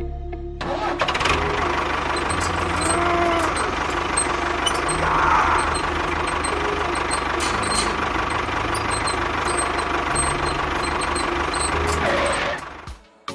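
Engine running steadily with a low, even chugging pulse, like a tractor engine, cutting off near the end.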